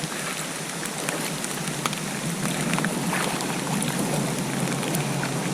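Steady light rain falling on and around a creek: an even hiss with scattered close drop ticks.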